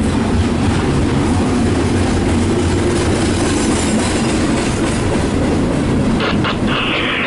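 CSX double-stack intermodal train passing at close range: a steady rumble and clatter of container-laden well cars rolling over the rails, with a higher hiss joining about six seconds in.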